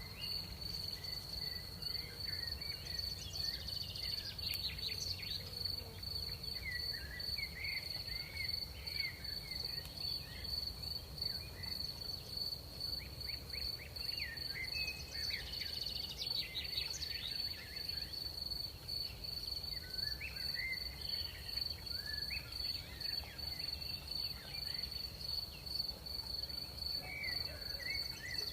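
Crickets trilling steadily in one unbroken high tone, with scattered short chirping calls over them and a low steady rumble of night-time background noise.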